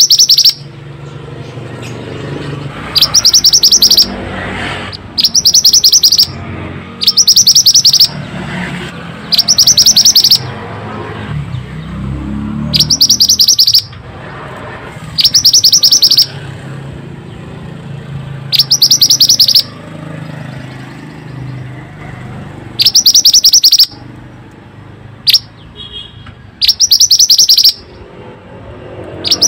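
Mantenan bird song: a loud, high, rapid buzzy trill about a second long, repeated about every two to four seconds over a low background rumble.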